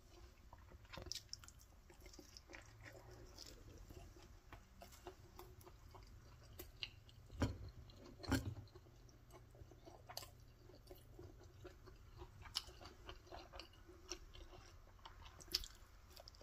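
Faint chewing and mouth sounds of someone eating a steamed bun (num pao) close to the microphone, with scattered small clicks and two louder knocks about halfway through.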